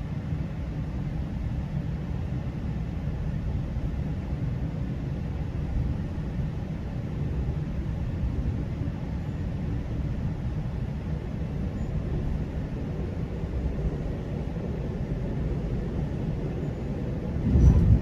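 GO Transit commuter train running along the track: a steady low rumble, with a brief louder thump near the end.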